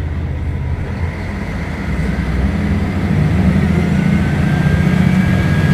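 Diesel engine of a Mercedes-Benz O500UDA articulated city bus pulling under load, its note stepping up and getting louder about three seconds in. A thin high whine rises in from about two seconds.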